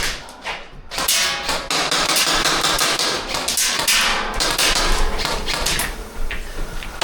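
Airsoft guns firing indoors: a rapid, irregular run of sharp cracks and BB impacts on hard surfaces, starting about a second in and carrying on.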